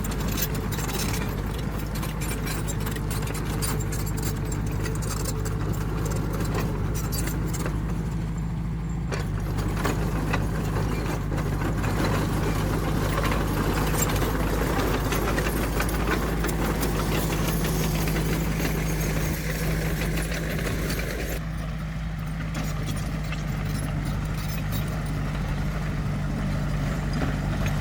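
Heavy earthmoving machine's diesel engine running steadily, with a rattling metallic clatter over it. The engine's note shifts slightly about nine seconds in and again near twenty-one seconds.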